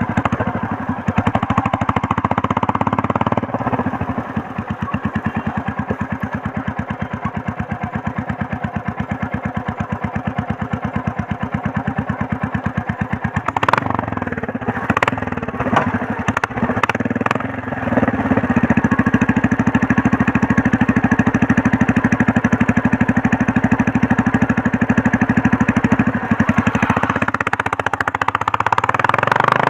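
Royal Enfield Meteor 350's single-cylinder engine and exhaust running on the move, with an even, chopping beat of exhaust pulses. A few sharp clicks come about halfway through, and it gets louder about eighteen seconds in.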